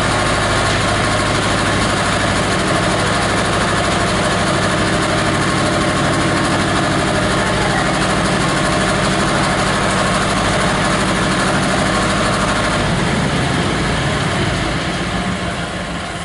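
18 HP diesel engine of a plastic-waste grinder running steadily, then beginning to wind down near the end.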